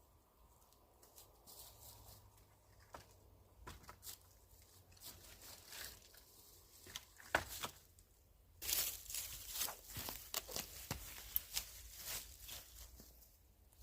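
Dry deadfall branches and twigs rustling, scraping and cracking as they are handled and leaned into place, with a busier run of crackles and knocks from about nine seconds in.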